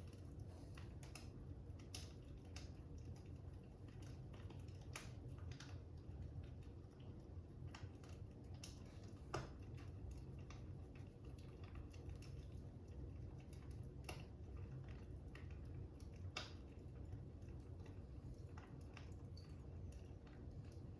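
Fire crackling faintly: irregular sharp pops and snaps over a steady low rumble, with a few louder pops about nine, fourteen and sixteen seconds in.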